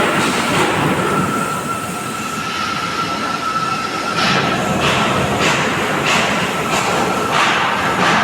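Stick-welding (MMAW) arc on stainless steel crackling and hissing steadily, with a faint steady whine. From about four seconds in, the crackle swells in regular pulses, about three every two seconds.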